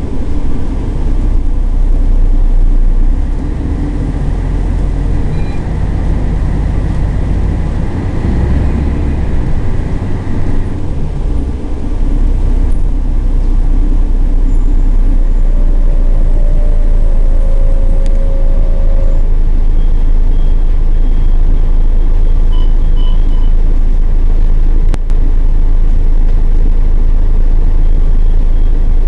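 Scania L113CRL single-deck bus's rear-mounted diesel engine running under way, a heavy low rumble that varies for the first ten seconds or so, then settles and runs steady.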